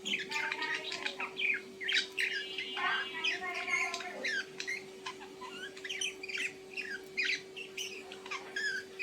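Birds chirping and squawking in quick, overlapping calls, with a steady low hum underneath.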